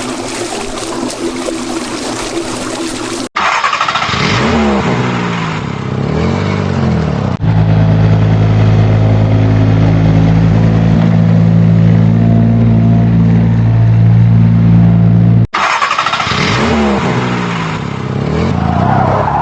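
Water spraying for about three seconds, then a vehicle engine revving up and down in pitch. The engine settles into a loud, steady low hum for about eight seconds and revs again near the end.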